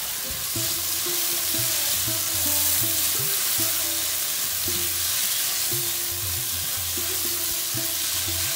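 Spiced tomato masala and peas sizzling in a frying pan on the stove, with background music playing under it.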